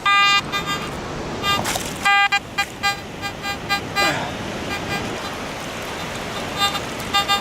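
Garrett AT Max metal detector giving target tones: a short beep right at the start and a run of short, quick beeps about two to three seconds in, over a steady hiss.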